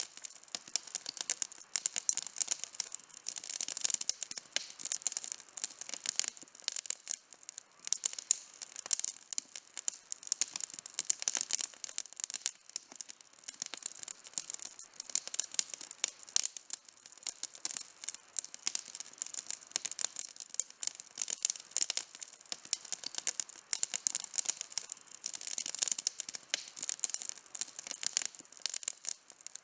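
Campfire crackling steadily, with dense small snaps and pops from burning wood.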